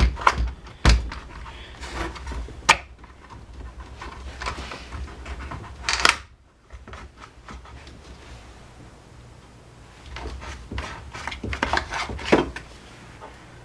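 Parts of a Honda UMK422 string trimmer being handled and fitted together by hand: irregular clicks and knocks, the sharpest at the start, about a second in, and again near 3, 6 and 12 seconds in.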